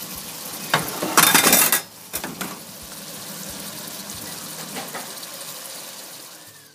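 Minced meat curry sizzling and steaming in a stainless steel pot, a steady frying hiss with a louder burst of hissing about a second in and a few light clicks.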